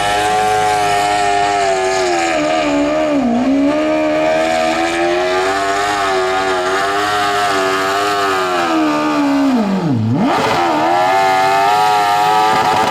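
Modified lawn tractor's engine running flat out under load, dragging a pulling sled. Its pitch sags briefly about three seconds in, then drops sharply and climbs back near ten seconds in as the engine bogs and recovers.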